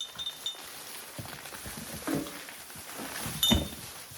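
Small painted cast iron bell handled and set down, with brief clinks. One sharp ringing strike about three and a half seconds in is the loudest sound.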